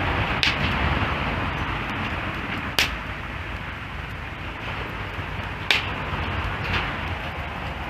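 Wood fire burning with a steady hiss and a few sharp crackles and pops, the loudest about three seconds in.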